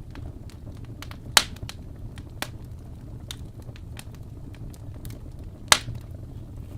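Wood fire crackling, with scattered small snaps and two sharp, louder pops, one about a second and a half in and one near the end, over a steady low rumble.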